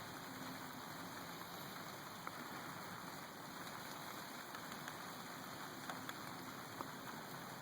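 Faint, steady wash of water dripping and running just after a heavy rainstorm, with a few scattered drips ticking.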